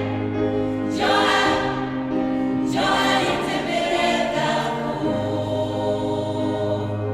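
Gospel choir singing a song in several parts over sustained low accompaniment notes, the chord changing a few times.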